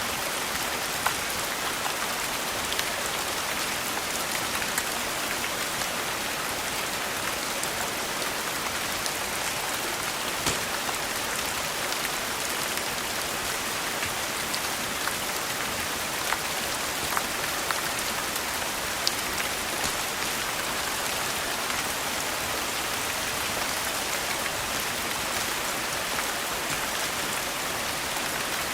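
Steady rain falling in an even hiss, mixed with a fireplace that gives an occasional sharp pop every few seconds.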